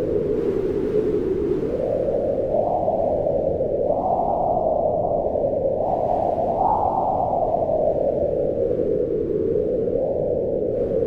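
Wind blowing in gusts, a whistling band of noise. Its pitch climbs in steps about a third of the way in and again past halfway, then slowly sinks.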